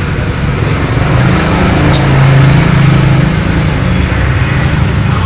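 Low, steady rumble of road traffic, swelling to its loudest around the middle, with a single short high chirp about two seconds in.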